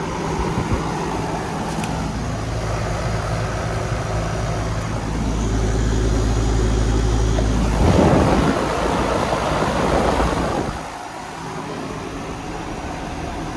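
Carrier Century central air conditioner condenser running: a steady low hum from the compressor and fan. A heavier rumble and rushing noise swell over it in the middle and die away about eleven seconds in.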